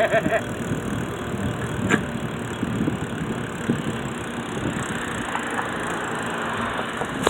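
Bicycle being ridden: a steady rolling noise with light rattles and a sharper knock about two seconds in.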